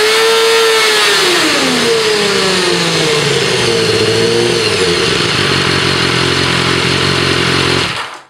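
A 2012 BMW S1000RR's inline-four engine on its loud stock exhaust, warmed up. It is blipped twice, rising and falling in pitch each time, then settles into a steady idle that stops abruptly near the end.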